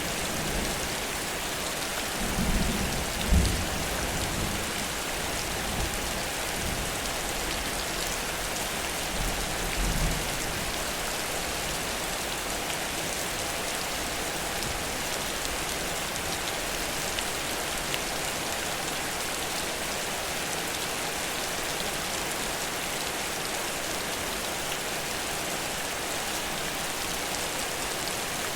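Heavy rain falling steadily in a continuous downpour hiss. A few brief low rumbles or thumps come in the first ten seconds.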